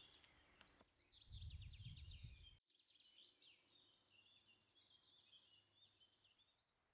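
Faint wild birdsong: several birds singing in quick high chirps and trills. About a second in, a low rumble comes in and stops abruptly about halfway through.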